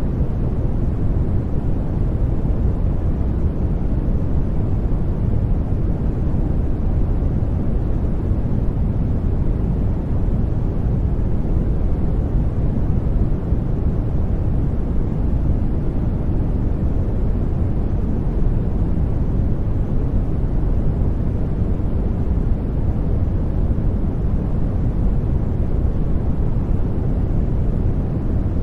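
Steady sleep noise without any change: a deep, even rushing hiss, heaviest in the bass and softer in the treble.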